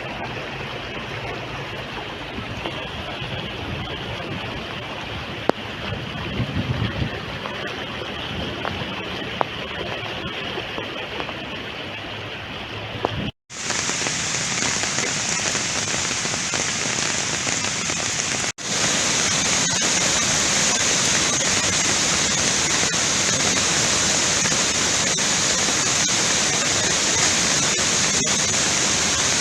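Steady rushing of water. It cuts out briefly about 13 seconds in and comes back brighter, then steps up louder around 19 seconds.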